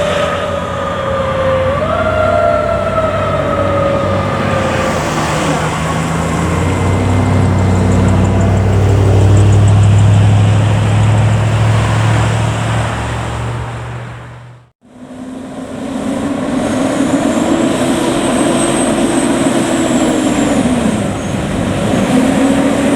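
Fire truck siren winding down in pitch, briefly pushed back up once, then the loud diesel engine rumble of the fire truck passing close by. After a sudden break, another siren rises, holds, falls away and starts rising again near the end.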